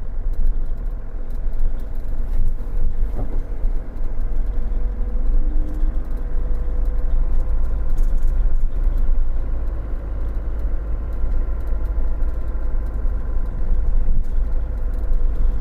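Car driving slowly on an unpaved gravel road, heard from inside the cabin: a steady low rumble of engine and tyres.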